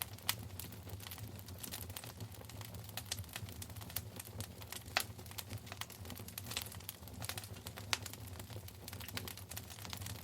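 Wood fire crackling in a fireplace: irregular sharp pops and snaps, a few louder ones about a quarter second in, at five seconds and near eight seconds, over a low steady rumble of burning.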